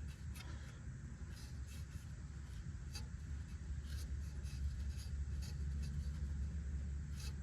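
Scratchy rubbing and scraping of an alcohol wipe being worked inside a rusty wheel-speed sensor hole, in many short strokes, over a steady low hum.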